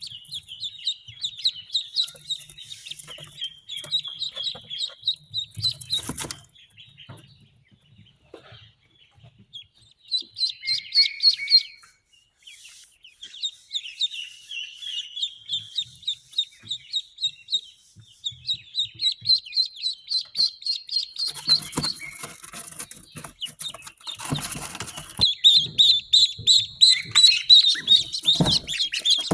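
Newly hatched ducklings peeping: rapid runs of high chirps in bouts, thinning out for a few seconds and then coming thicker and louder near the end, with some rustling.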